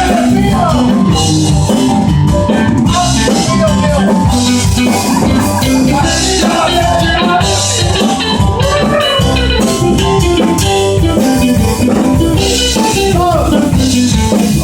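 Live band music with a drum kit keeping a steady beat under a sung melody.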